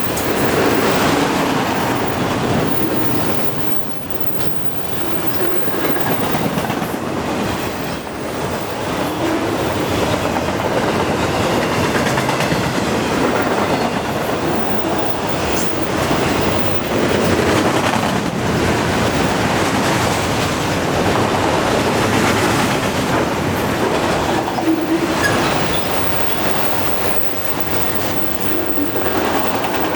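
Freight cars of a long CN freight train rolling past, a steady rumble with wheels clicking over the rail joints.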